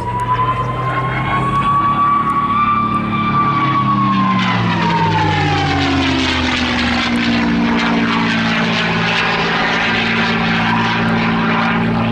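P-51D Mustang's Packard-built V-1650 Merlin engine running at display power, with a high whine over the propeller drone. About four seconds in, the whine and the engine note drop in pitch as the aircraft passes, then settle into a steady drone.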